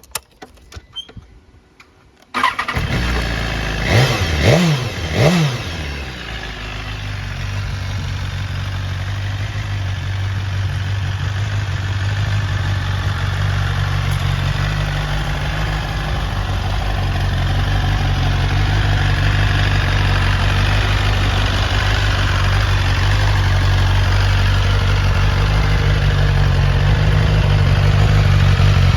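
BMW S1000RR's inline-four engine starting a little over two seconds in, revved in three quick blips, then idling steadily and getting slightly louder toward the end. A few faint clicks come before the start.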